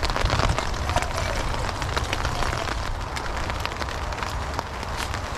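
Rain falling on a nylon tarp overhead: a steady hiss with many scattered drop taps.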